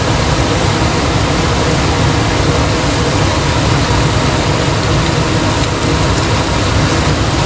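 Minced beef frying in a pan: a steady sizzle over a constant low rumble.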